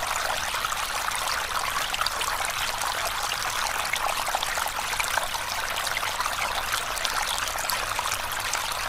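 Running water of a small stream: a steady splashing trickle with many small droplet clicks.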